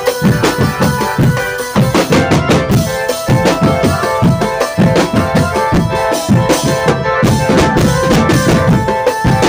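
Drum band playing: fast, dense drumming with a sustained melody line held over it.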